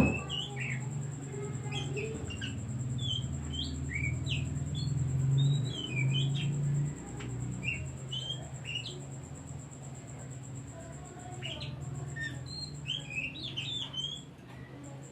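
Oriental magpie-robin (kacer) singing short, varied chirps and whistles in quick phrases. A low hum runs underneath, swelling louder in the middle, and a steady high-pitched tone sounds throughout; a sharp knock sounds right at the start.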